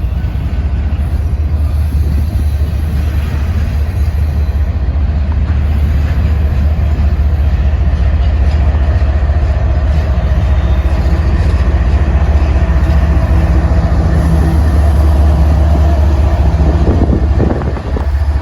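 Train passing close by trackside, a loud steady rumble.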